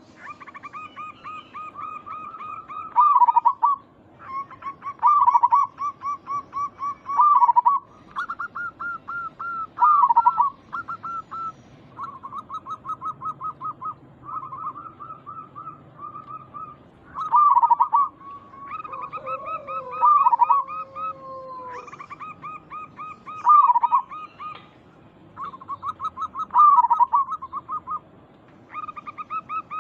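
Zebra doves (perkutut) cooing: phrases of rapid staccato notes come every couple of seconds, each opening with a louder note, and the phrases of more than one bird overlap. About two-thirds of the way in there is a longer, smooth, sliding note.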